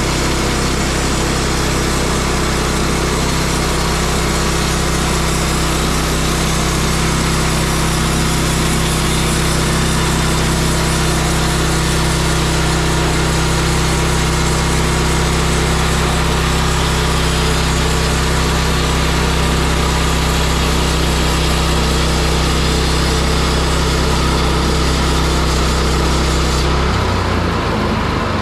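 Woodland Mills HM122 bandsaw mill running, its gas engine at steady speed while the band blade saws through a small log, a blade the owner says is getting dull. Near the end the high hiss drops away and the engine note changes.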